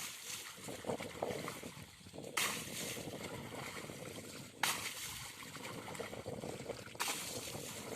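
River water splashing and rushing, with a sudden louder splash about every two seconds.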